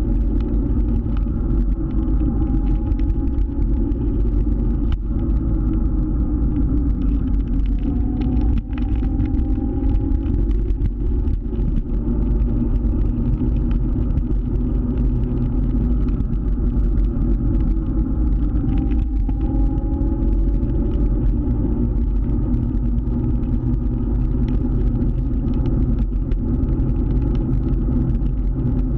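Scooter running while being ridden, a steady low rumble of engine and wind on the onboard microphone, with a faint rising whine three times as it picks up speed.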